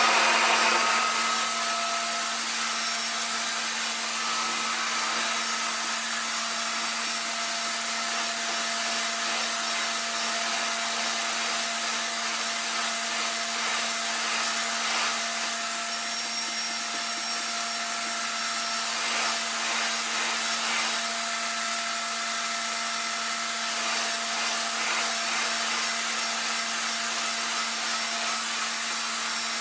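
RevAir reverse hair dryer running steadily: a constant motor hum with a steady high tone over a rush of suction air.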